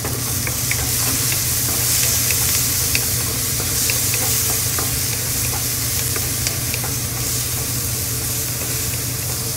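Diced onion, garlic and tomato sizzling in oil in a nonstick wok, stirred with a wooden spatula: a steady frying hiss with scattered small clicks.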